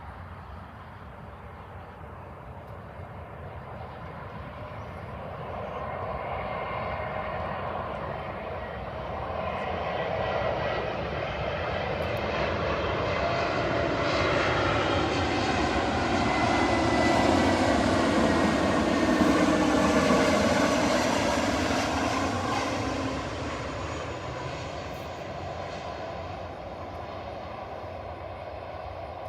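Airbus A320-family jet airliner passing close by: its jet engine noise builds steadily to a loud peak about two-thirds through, the whine dropping in pitch as it goes past, then fades away.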